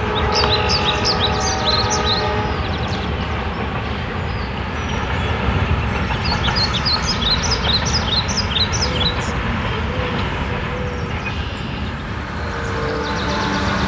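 A train passing close by: a steady, heavy rumble of rolling cars that runs without a break. Bunches of short high chirps ride above it near the start and again about halfway through.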